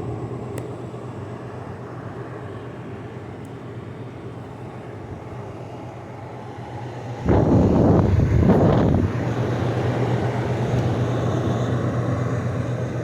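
LG 6000 BTU window air conditioner running with a steady fan rush and low hum, the compressor possibly still waiting out its start delay. About seven seconds in, a loud rushing noise lasts for about two seconds, then the unit's hum carries on a little louder.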